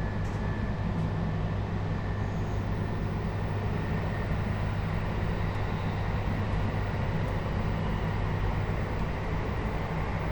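Running sound inside a JR Hokkaido 721 series electric car with a Toshiba GTO inverter (MoHa 721-4202), moving between stations. There is a steady rumble of wheels, rails and traction motors, with a faint high tone that rises slowly over the first few seconds.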